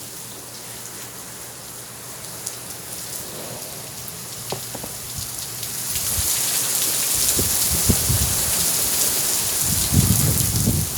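Heavy rain falling and splashing on surfaces, a steady hiss that grows louder about six seconds in. Low rumbling comes in over the last few seconds.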